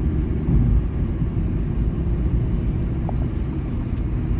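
Steady low rumble of road and engine noise from inside a moving car's cabin.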